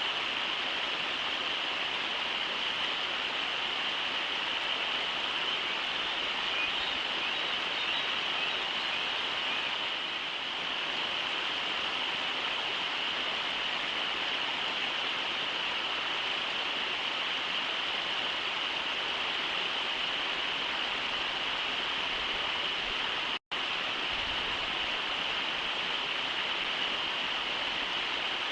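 Steady rushing of river water running over shallow riffles, an even hiss with no change, cutting out for an instant about 23 seconds in.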